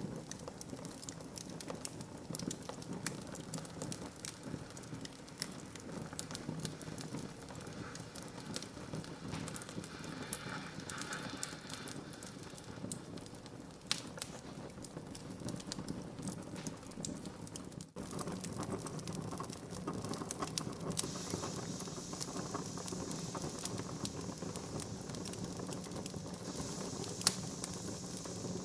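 Wood fire burning in a fireplace: dense, irregular crackling and popping over a steady hiss. The sound drops out for a split second about two-thirds of the way through, and there is one sharp pop near the end.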